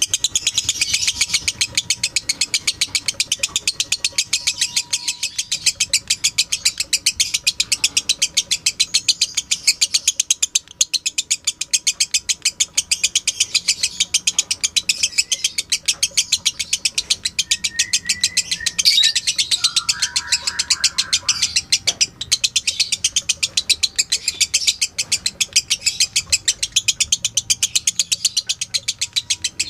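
Lovebird singing a long chattering song, high-pitched chirps repeating evenly at about five a second without a break. About two-thirds of the way through, a few lower whistled notes come in briefly.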